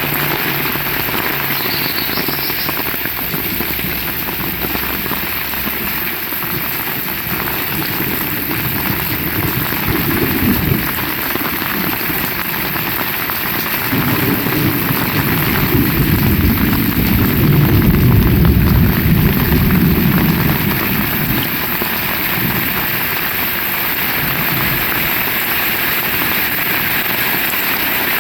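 Heavy rain falling steadily. A low rumble swells in the middle and then fades.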